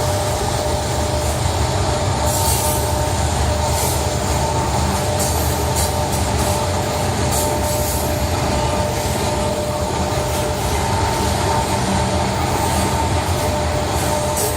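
Freight train rolling past at close range: a steady rumble of wheels on rail, with a sustained squeal from the wheels and scattered clicks.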